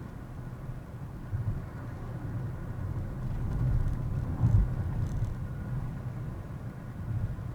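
Low road and engine rumble of a moving car heard from inside the cabin, swelling for a couple of seconds in the middle with a single bump about four and a half seconds in.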